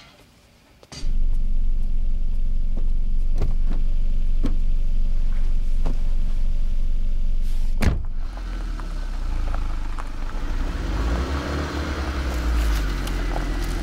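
A car's engine running with a steady low rumble that starts abruptly, with a few faint clicks, heard from inside the car. Just before eight seconds in comes a single sharp thump like a car door shutting. After it the rumble is quieter under a swelling hiss.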